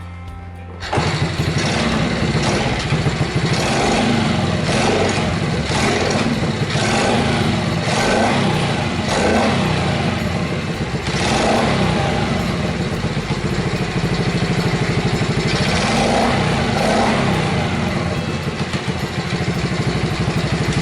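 Honda Chaly's small single-cylinder four-stroke engine catching about a second in and running, revved up and down repeatedly, through a newly swapped muffler. It still hesitates on this first start, which the owner thinks a carburettor setting might fix.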